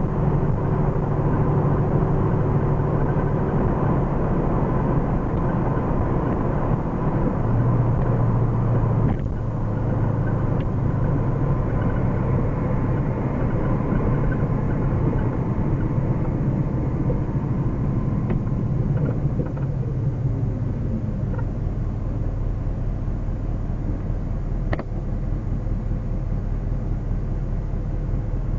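1979 Ford Mustang Pace Car's engine, on its break-in run, heard from inside the cabin while driving. The note breaks briefly about nine seconds in, falls in pitch later as the car slows, and settles lower near the end as it comes to a stop. There is a single click shortly before the stop.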